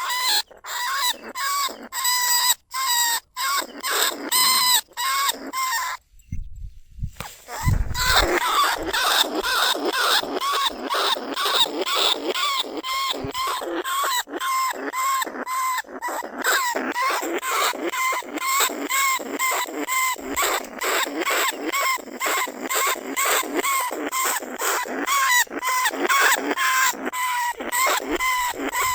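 Small bandicoot rat squeaking in a cage trap: a rapid, steady run of short pitched squeaks, about three a second. The run breaks off briefly about six seconds in, then a low thump comes before the squeaking resumes.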